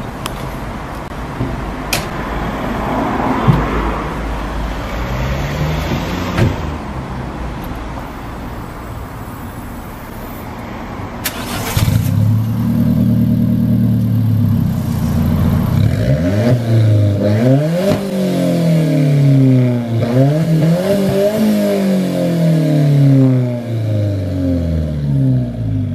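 Alfa Romeo 4C's 1.7-litre turbocharged four-cylinder, starting up about halfway through and settling to a fast idle. It is then revved in a series of quick blips, the pitch rising and falling again and again.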